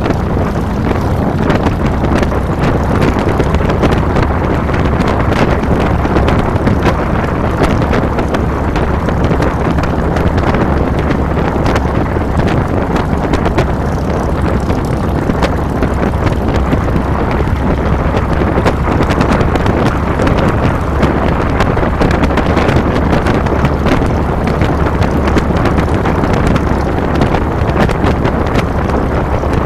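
2007 Harley-Davidson Fat Boy's Twin Cam 96 V-twin running steadily on the move, with wind rushing over the handlebar-mounted microphone.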